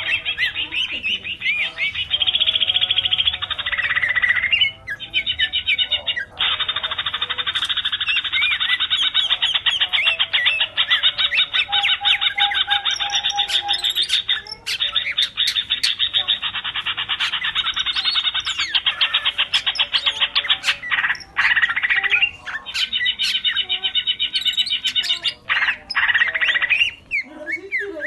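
Greater green leafbird (cucak ijo) singing in long, rapid runs of fast repeated notes with only a few brief breaks: the continuous 'full tembak' burst song.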